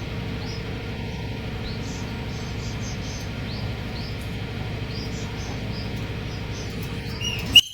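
Steady low hum of the railway gantry cranes' machinery running while a bridge girder is lowered into place, with faint short high chirps over it. Near the end a sharp click and a brief high tone.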